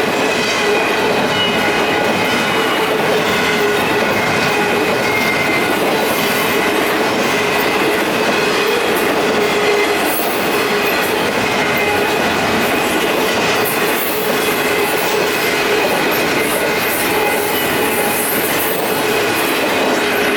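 Union Pacific intermodal stack train's cars rolling steadily past at a grade crossing: continuous wheel-on-rail rumble and rattle with faint steady squealing tones.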